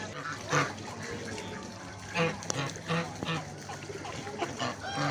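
Ducks quacking in a run of short calls, over a steady background hiss.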